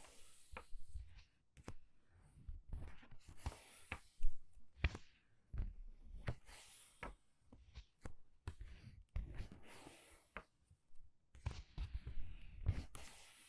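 Pages of a book being turned quickly, a soft papery swish every two to three seconds, with light taps and clicks of the paper and fingers in between.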